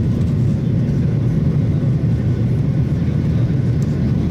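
Airliner engine and airflow noise heard inside the passenger cabin during the climb after takeoff, a steady low roar.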